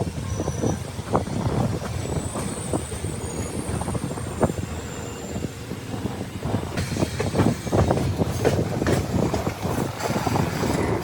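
Express passenger train running along the track: a steady rumble with many irregular knocks of the wheels over the rails, and a few thin high squeals in the first half.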